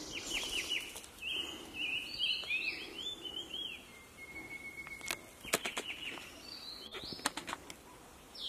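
Several wild birds singing and calling: quick chirps and short falling whistled notes, with one long, steady whistle about four seconds in. A few sharp clicks come past the middle and near the end.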